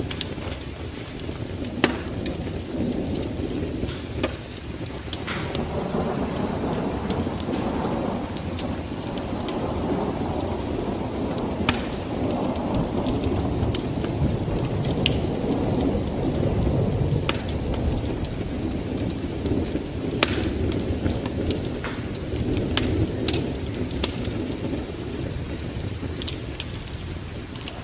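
Wood fire crackling, with sharp irregular pops over a low rumble that swells and eases.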